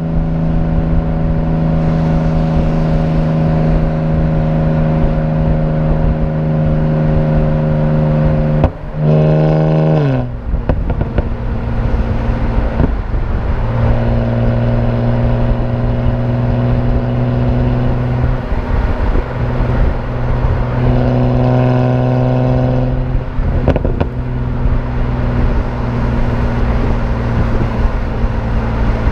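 BMW 328i straight-six running through aftermarket headers and a performance exhaust, holding steady revs while driving. Twice, about nine and twenty-two seconds in, the revs rise briefly and then fall to a lower, steady pitch, as with gear changes of the automatic transmission.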